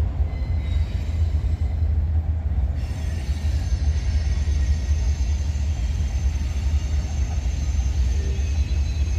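A train passing close by with a steady low rumble. Faint high steady tones, typical of wheel squeal, join about three seconds in.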